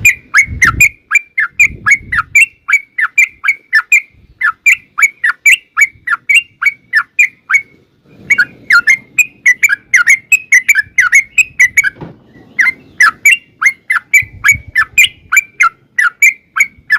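Yellow-vented bulbul (trucukan) singing a long, fast run of short, falling chirping notes, about three a second, with brief breaks about seven and a half and twelve seconds in.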